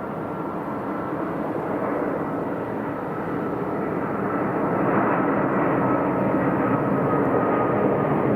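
Jet noise from a Malaysia Airlines Airbus A380's four Rolls-Royce Trent 900 turbofans as it comes in to land, a steady rush growing louder as it nears, with a faint high whine that sinks slightly in pitch.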